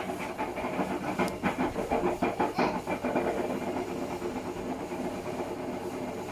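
Hotpoint WMFUG942 washing machine drum turning with a dog food box inside, giving a quick run of knocks and rattles for the first few seconds, then a steady rushing hiss.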